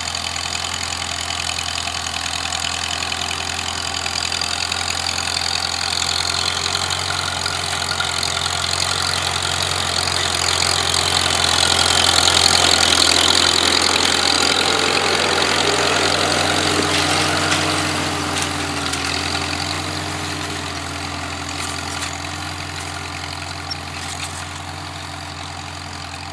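Old International H tractor's four-cylinder engine running steadily, growing louder to a peak about halfway through and then fading again.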